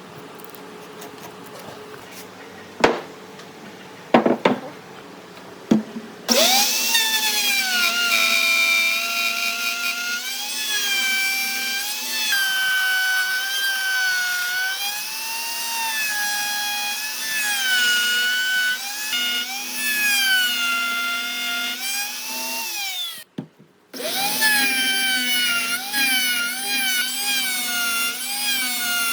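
A few sharp knocks, then a handheld electric power tool starts up and runs with a loud whine on the wood. Its pitch keeps dipping and recovering as the tool bites and eases off. It stops for under a second about 23 seconds in, then starts again.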